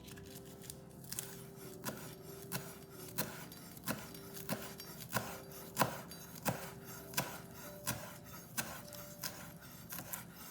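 Knife tapping on a cutting board in an even rhythm, about three strokes every two seconds, over soft background music.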